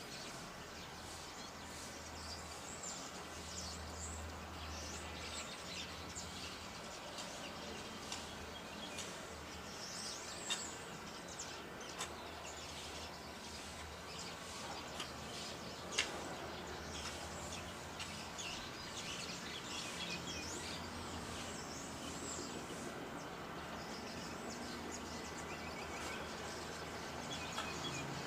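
Birds chirping on and off over a steady low outdoor rumble, with two sharp clicks about ten and sixteen seconds in.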